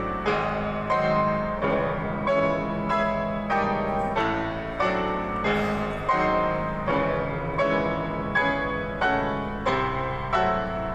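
Background piano music: chords struck about twice a second in a steady rhythm, each ringing and fading before the next.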